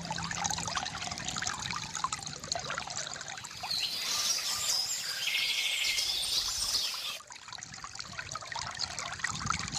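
Water trickling and splashing from a bamboo fountain, with many small splashes. Birds chirp over it for a few seconds midway, including a short buzzy trill.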